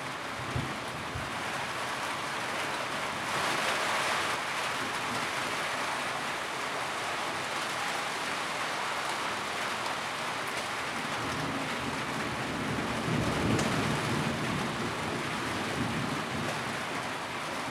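Steady rain on a tin roof, one even patter, swelling briefly about three to four seconds in. A low rumble rises under it about thirteen seconds in.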